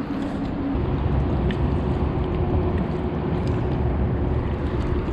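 A motor running with a steady drone and low rumble, its pitch stepping up and growing louder about a second in.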